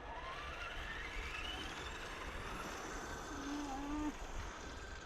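Electric motor of an RC scale crawler truck whining up in pitch as it is throttled, the rising tone climbing steadily over two to three seconds as the wheels spin for lack of grip. A short low hum follows about three and a half seconds in.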